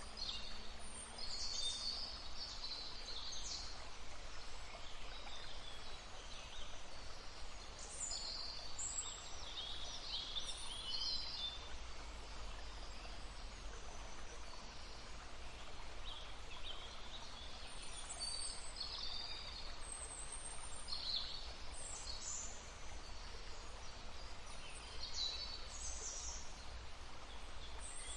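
Songbirds chirping and singing in short bursts every few seconds over the steady rush of a small babbling stream.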